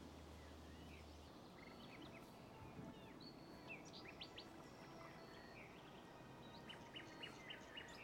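Faint birdsong in a garden: scattered short chirps and whistles over quiet outdoor ambience, coming more often near the end.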